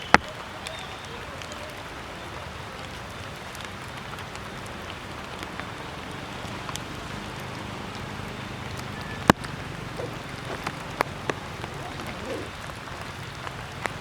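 Steady patter of water drops on leaves and ground after rain, with a few sharp taps. The loudest taps come near the start and about nine seconds in.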